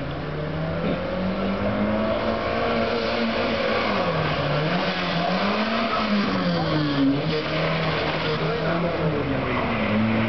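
Subaru Justy hatchback's small engine driven hard round a tight rally course, the revs climbing, dipping sharply a couple of times as the driver lifts and turns, then climbing again, with some tyre squeal.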